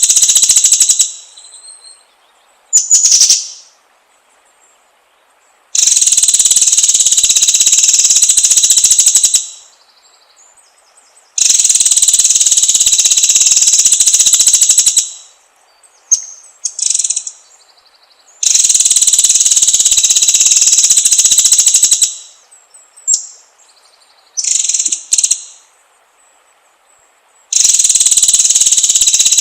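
White-rumped shama (murai batu) singing: long bursts of rapid rattling song, each lasting about three to four seconds and recurring every six seconds or so, with short separate whistled notes in the pauses between them.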